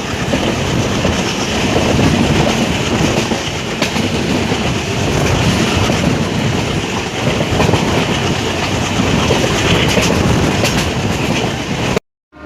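Passenger train running along the track, a steady loud rumble with the clatter of wheels over rail joints. The sound cuts off suddenly near the end.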